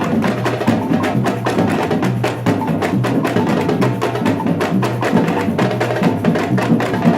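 Batucada percussion ensemble playing a dense, steady samba rhythm: deep bass drums pulsing under rapid snare and block-like strikes.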